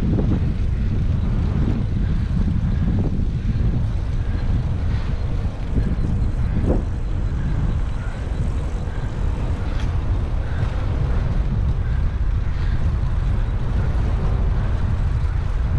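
Steady low rumble of wind buffeting and road noise on a camera mounted to a moving bicycle, with traffic around.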